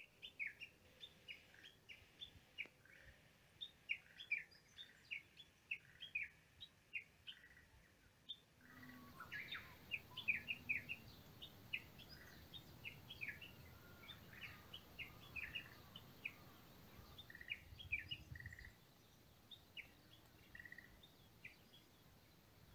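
Small birds chirping: many short, high, downward-sliding calls, several a second, faint against a low outdoor background hiss that grows slightly louder about a third of the way in.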